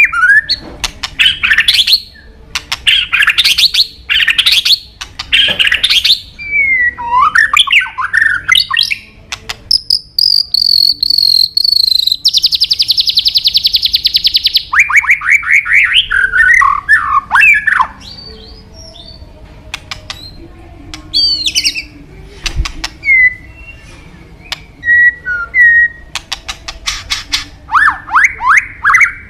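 White-rumped shama (murai batu) singing a loud, varied song of gliding whistles and quick rising phrases, with a rapid buzzing trill in the middle. Its song thins to a few short notes with pauses in the second half, then picks up again near the end.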